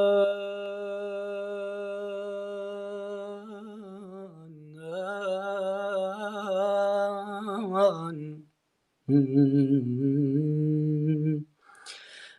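A man singing an Iraqi mawwal unaccompanied, drawing out the word 'aman' on a long held note that then turns into slow, wavering ornaments. After a short break about eight seconds in, a lower note is held for a couple of seconds.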